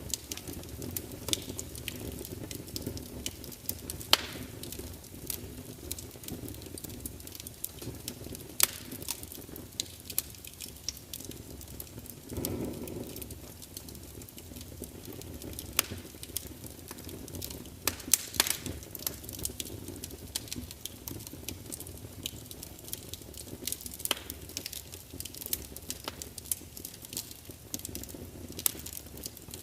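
Wood fire burning in a large open fireplace: a steady low rumble of flames with frequent sharp crackles and pops, a few of them louder, and a brief louder whoosh of flame about twelve seconds in.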